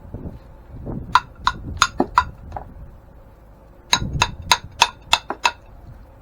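Hammer blows on the grain mill's metal parts, in two runs of sharp strikes, about six and then seven, roughly three a second.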